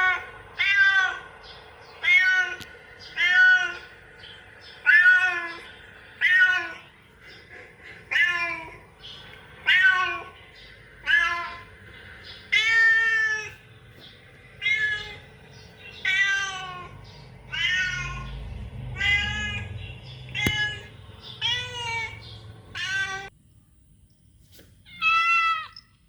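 Domestic cat meowing over and over, about one meow a second, each call rising and then falling in pitch; the calls pause briefly near the end before one more meow.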